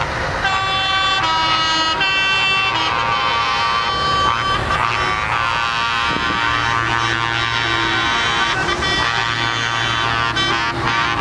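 Truck air horns blowing a run of tones that change pitch every half second or so, then holding longer, over running truck engines.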